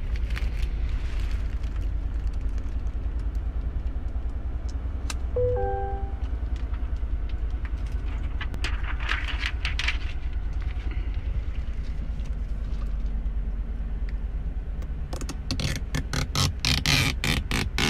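Protective plastic film being peeled off a new pickup truck, with a dense run of sharp crackles near the end, over a steady low rumble and a few short musical tones.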